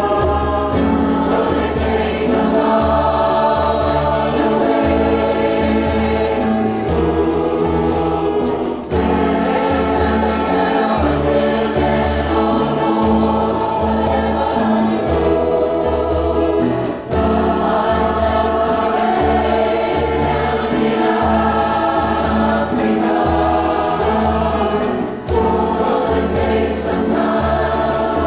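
Community choir singing in harmony to a steady rhythmic beat.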